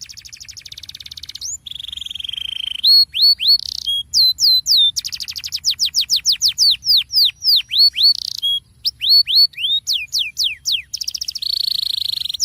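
Domestic canary singing a continuous rolling song. It moves between rapid trills, runs of repeated downward-sweeping whistles and short held buzzy notes, changing phrase every second or so.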